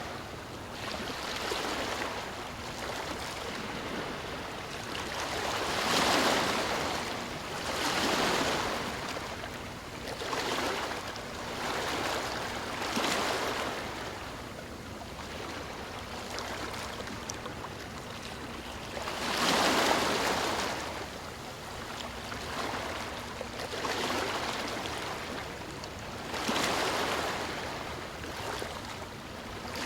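Ocean waves breaking and washing in, one swell of surf every two to three seconds, two of them louder than the rest.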